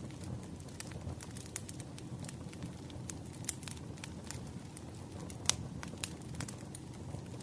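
Wood fire crackling: irregular sharp pops and snaps over a low steady rumble, with one louder pop about five and a half seconds in.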